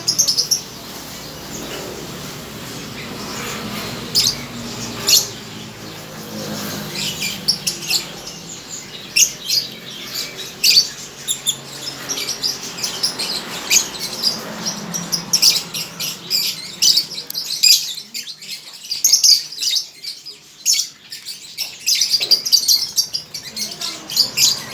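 Lovebirds chirping and squawking, with many short, sharp, high calls in quick succession.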